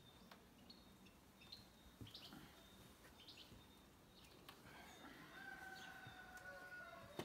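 Faint birdsong: short high chirps every second or so, and a rooster crowing in one long held call for about two seconds near the end.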